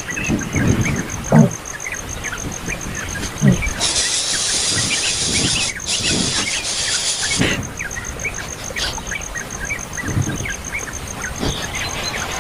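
Small birds chirping with many short, quick calls over a steady, fast-pulsing high tone. A loud hiss covers about four seconds in the middle, and there are a few low thumps.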